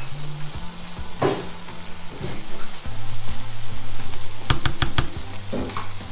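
Eggplant in chili sambal sizzling in a frying pan over raised heat while a spatula stirs it, with a quick run of sharp knocks about four and a half seconds in.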